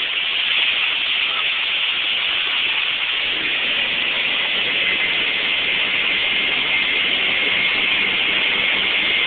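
Steady rushing hiss on a boat under way, with a faint steady hum joining about three seconds in.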